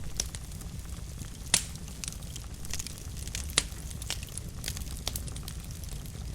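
Fire burning in a fireplace, crackling steadily over a low rumble, with two louder sharp pops about a second and a half and three and a half seconds in.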